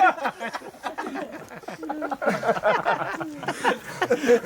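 Several male voices talking over one another in a muffled, indistinct jumble, with no clear words.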